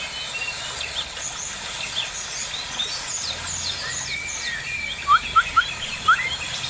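Several birds chirping and calling, with four loud, short rising calls about five to six seconds in.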